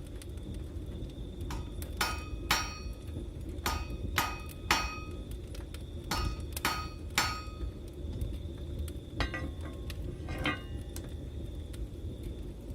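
Blacksmith's hammer striking metal on an anvil, each blow ringing: three groups of three blows about half a second apart, then a few lighter clinks near the end. A steady low rumble runs underneath.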